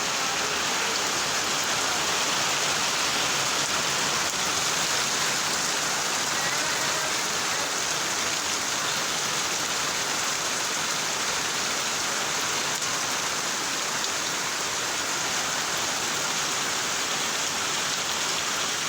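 Rain falling steadily, an even, unbroken hiss with no pauses or single loud drops.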